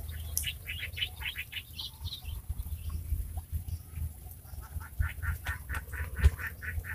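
A bird calling in two runs of short, evenly spaced notes, about six a second: one at the start and one from about five seconds in. A sharp knock sounds about six seconds in, over a low rumble.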